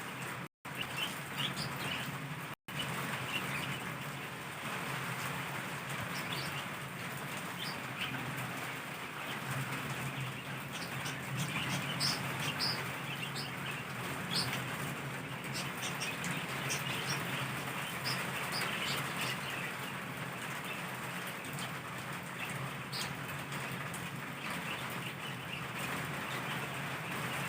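Heavy torrential rain pouring steadily, with scattered sharper drip and splash ticks through it. The sound cuts out for an instant twice near the start.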